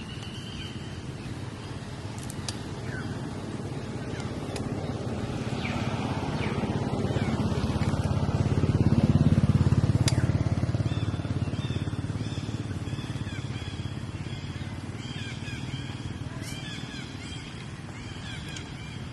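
A low rumble that swells gradually, is loudest about nine seconds in, then fades away, over a steady background; short high chirping calls come again and again in the latter half.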